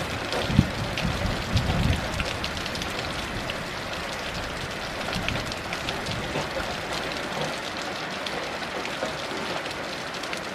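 Heavy rain falling steadily, with individual drops ticking through the hiss. A low rumble of distant thunder trails off in the first two seconds.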